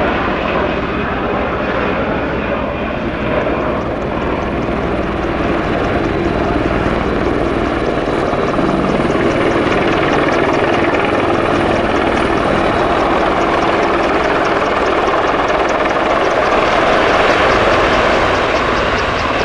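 Military display helicopter flying, its rotor running as a steady drone with a fast, regular beat, growing slightly louder near the end.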